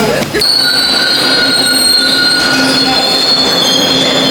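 Steady high-pitched squealing tones over a rushing noise, starting suddenly about half a second in, like metal wheels squealing on rails.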